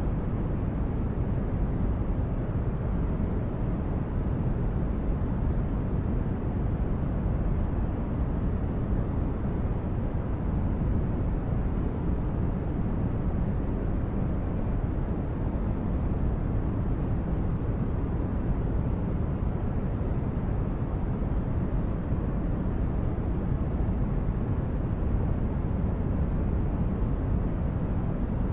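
Sci-fi spaceship ambience of steady, brown-noise-like rumble, strongest in the bass and thinning toward the highs, with no distinct events.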